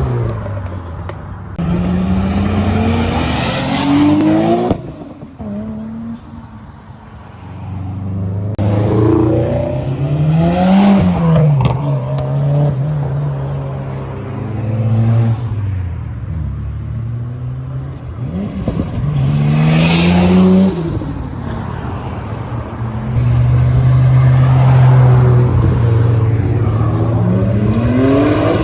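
Japanese performance cars accelerating away one after another, each engine revving with a rising pitch as it pulls past. The longest and loudest run is in the last few seconds.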